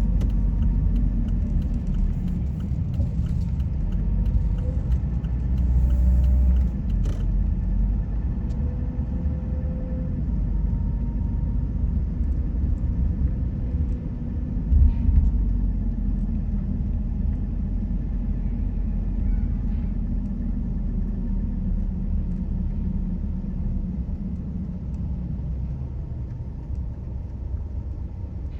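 Steady low rumble of a car driving along a road, engine and tyre noise together, with a brief louder bump about fifteen seconds in.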